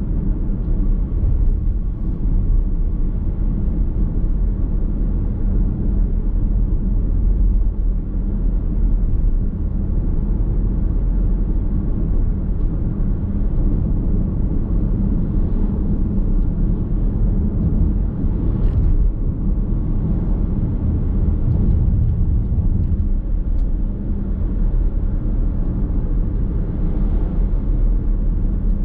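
Steady low rumble of a car driving, heard from inside the cabin: road and tyre noise with the engine underneath.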